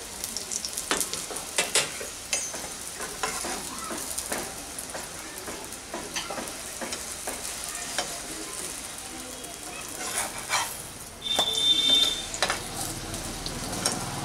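A paratha frying in refined oil in a non-stick pan, sizzling with many small crackling pops. A slotted metal spatula presses and scrapes it against the pan, with a short, louder high squeak about eleven seconds in.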